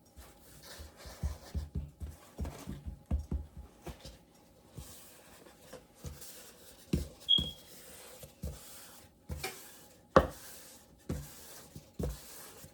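Dumpling dough being rolled out on a floured counter: irregular low thumps and knocks as the roller presses and bumps the surface, with a sharp knock about ten seconds in and a brief high squeak about seven seconds in.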